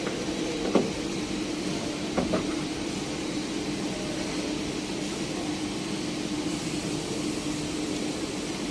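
Steady machine hum with a constant low tone, and a few short light clicks or taps in the first couple of seconds.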